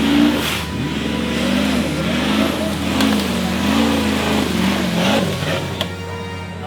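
Off-road 4x4 engine revving up and down again and again as it works through an obstacle, its pitch rising and falling; it fades about five seconds in.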